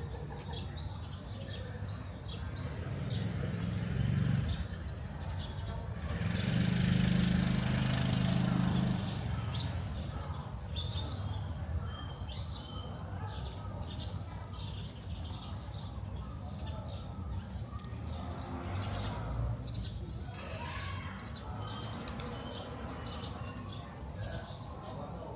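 Small birds chirping repeatedly in short rising calls, with a quick trill about four seconds in. A louder rushing noise with a low hum passes for a few seconds around six to nine seconds in.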